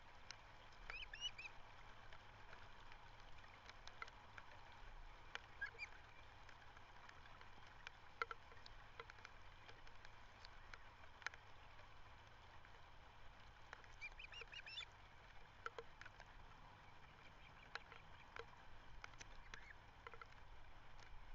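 Faint bird calls: short, quick chirping calls in a couple of brief clusters, with scattered soft clicks over a low steady background hiss.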